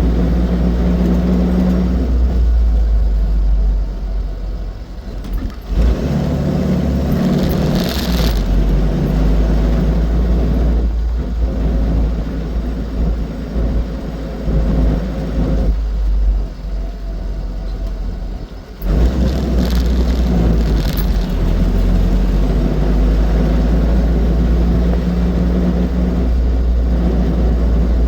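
Austin 7's small four-cylinder side-valve engine running on the road, with low road and wind rumble. The engine note falls away twice, about four and sixteen seconds in, then picks up again.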